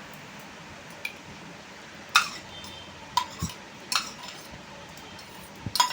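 A spoon clinking against a bowl about five times, roughly a second apart, as spiced potato chaat is stirred and mixed.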